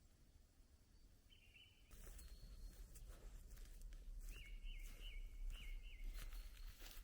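A small bird calling faintly: a short series of about five quick high repeated notes, over light rustling and clicks that start about two seconds in.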